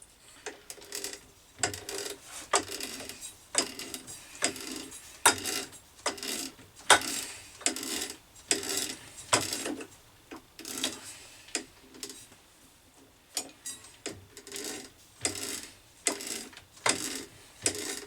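Threading die cutting a 1/4 in Whitworth thread on a brass spigot, worked in short strokes: a repeated series of sharp scraping cuts, about one or two a second, some louder than others.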